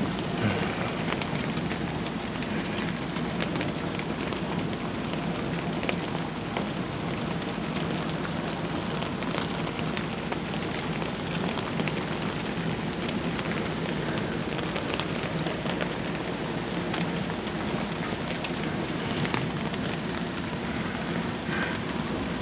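Steady heavy rain falling, with many close, sharp drop ticks, typical of rain striking an umbrella held over the microphone.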